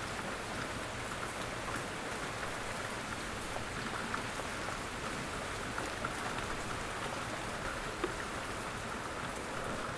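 Steady rain falling, a continuous hiss with scattered individual drops pattering on a surface.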